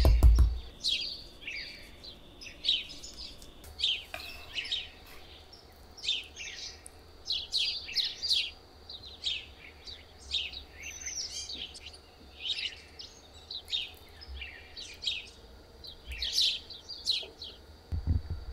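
Small birds chirping in short high calls that come in quick clusters every second or so. A dull knock sounds at the very start, and soft low thuds near the end.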